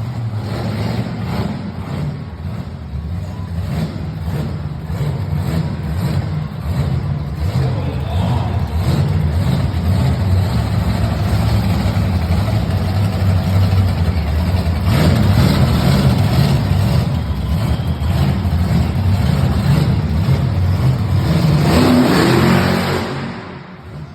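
Monster truck engine running and revving loudly, louder in the second half and dropping away just before the end.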